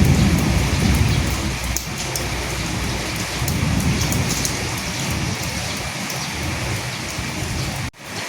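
Steady heavy rain hissing, with low rolling thunder rumbles swelling near the start and again about midway. The sound cuts out for an instant near the end.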